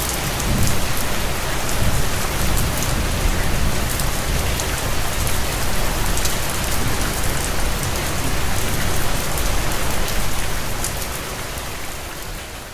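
Steady rain falling, with many individual drops ticking, over a low rumble; the sound fades out near the end.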